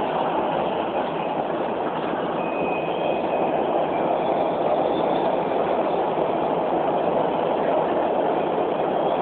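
Beijing Subway Line 4 train running between stations, heard from inside the car: a steady rumble of wheels and running gear. A faint high whine comes in briefly about three seconds in.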